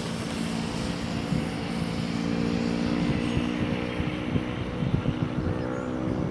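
Radio-controlled race boat's outrunner brushless motor running at a steady pitch as the deep-V hull skims across the water.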